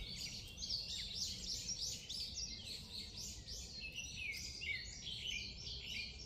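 Songbirds singing and chirping together in a dense chorus of quick, high calls and short gliding notes, over a faint low rumble.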